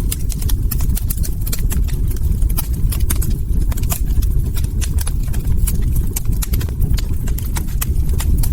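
Wood fire crackling: a dense run of sharp pops and snaps from burning logs over a steady low rumble of the flames.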